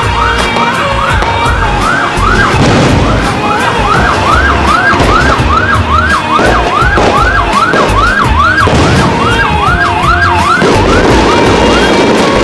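Rapid-fire whistling fireworks: a long run of shrill rising whistles, about two to three a second and sometimes overlapping, over continual crackling and bangs. The whistles die away near the end while the crackling goes on.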